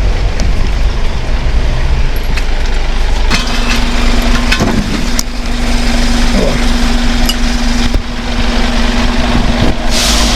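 Truck engine idling with a steady low rumble and scattered metal clicks. About three seconds in a steady hum joins it, and near the end there is a short hiss.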